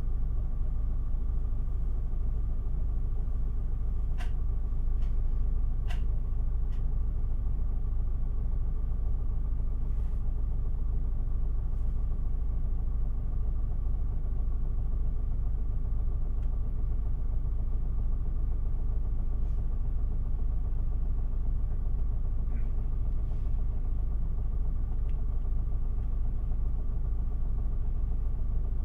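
Isuzu Erga city bus's four-cylinder diesel idling steadily, heard from inside the passenger cabin while the bus stands waiting to depart. A few faint clicks sound over the engine hum.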